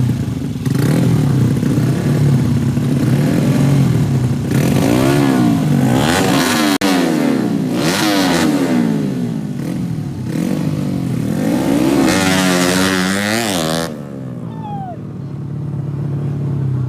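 Racing motorcycles with 200 cc horizontal 'sleep' engines revving hard, more than one engine at once, their pitch repeatedly climbing and falling. About fourteen seconds in the high revving stops abruptly, leaving a lower steady engine drone.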